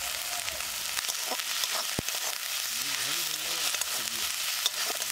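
Onions, dried fish and green chilli paste sizzling in hot oil in a metal kadai. A spatula scrapes and knocks against the pan as the mixture is stirred, with one sharp knock about two seconds in.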